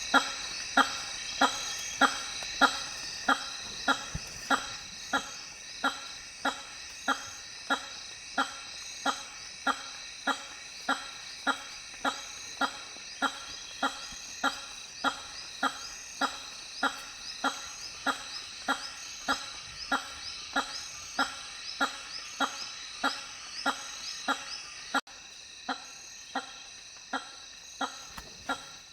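Hammer-headed fruit bat giving its loud honking call over and over at an even pace, about one and a half honks a second. A steady high-pitched buzz runs underneath and drops away suddenly near the end.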